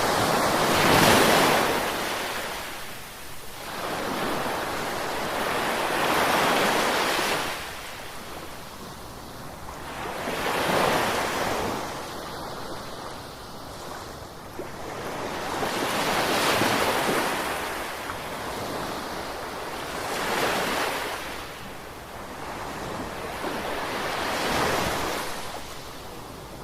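Gentle sea waves breaking and washing in, swelling and fading in a slow rhythm of about one wave every four to five seconds, six in all.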